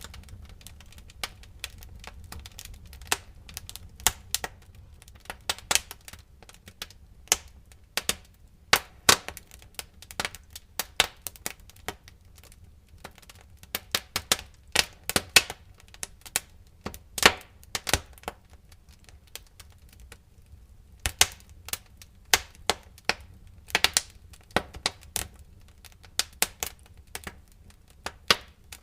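Wood fire in a fireplace crackling, with irregular sharp pops and snaps in clusters over a faint low rumble of burning.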